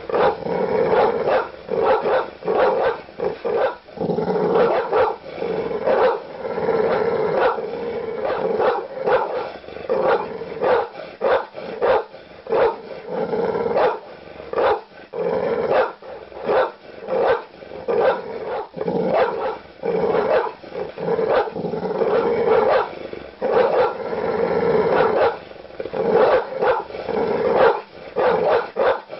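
Large dogs barking aggressively and nearly without pause: deep, rapid barks several a second, with a few brief breaks.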